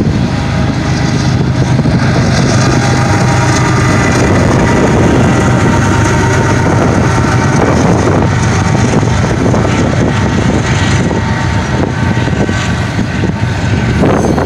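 GE C45ACCTE diesel-electric locomotive working as a mid-train DPU passing close by with its engine running in a steady hum, over the continuous noise of freight car wheels on the rails. Some wind on the microphone.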